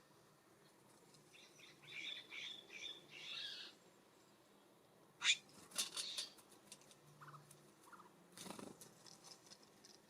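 Small birds at a seed feeder: a quick run of short chattering call notes, then a few sharp taps and a flutter of wingbeats as birds land and take off.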